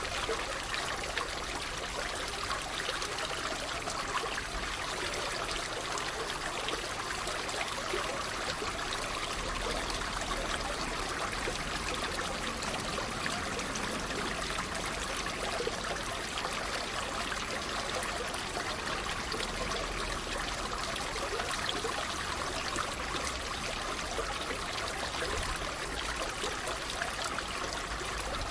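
Water trickling and splashing steadily, like a small running stream.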